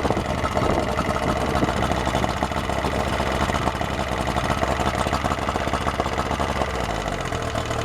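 Yamaha outboard motor running steadily just after a restart. It drops to a lower idle near the end. The owner puts the earlier stall down to fogging oil still left in it from winterizing.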